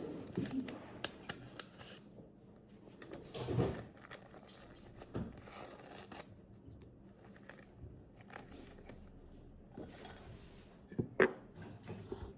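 Small rustles, clicks and knocks of hands handling a paper drip coffee bag, with a louder rustling or tearing swell about three and a half seconds in and a sharper knock near the end.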